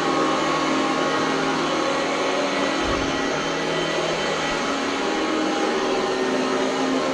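Oreck upright vacuum cleaner running steadily, its motor giving a constant whine over an even rush of air, with one brief low bump about three seconds in.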